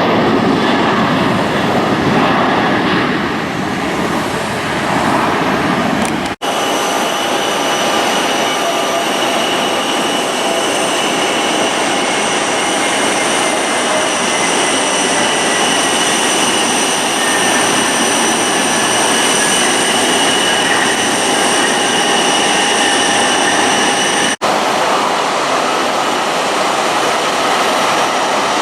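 Jet airliner engines running loud, first as a broad roar, then with several steady high whining tones and a slow falling whistle. The sound cuts off abruptly twice, each time into a different stretch of engine noise.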